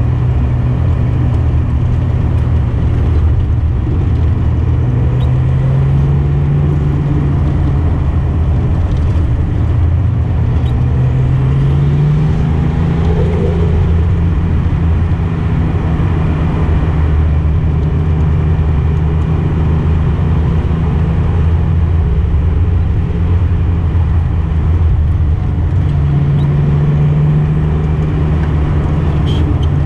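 Datsun 240Z engine running steadily while cruising along a winding road. Its note rises and falls a little a few times as the throttle changes.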